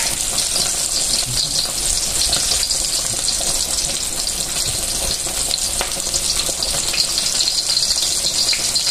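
Chicken frying in hot oil in a wok: a steady sizzle with a few light crackles.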